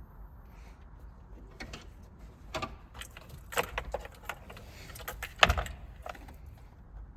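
Scattered clicks, light rattles and knocks from parts and tools being handled during work on a truck's interior, with the loudest knock about five and a half seconds in.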